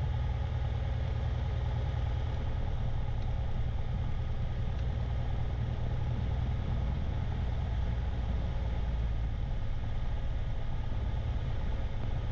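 Light aircraft's piston engine running steadily at low taxi power after landing: an even, unchanging low drone.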